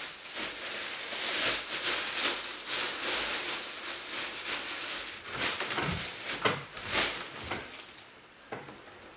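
Clothes being handled and moved about, giving an irregular rustling with louder crinkles in places; it fades near the end.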